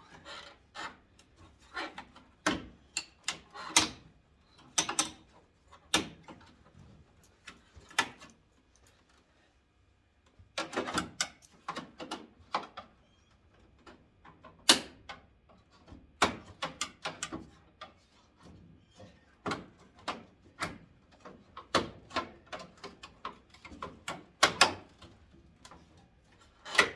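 Irregular sharp clicks and knocks of a screwdriver prying and pulling at the plastic front trim of a 1991 Ford Ranger, whose clips are still holding on. There is a brief pause about nine seconds in.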